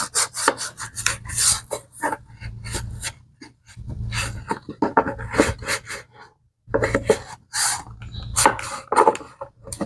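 Quick, repeated strokes of a scrubbing brush on a leather bag, with a short pause about two-thirds of the way through.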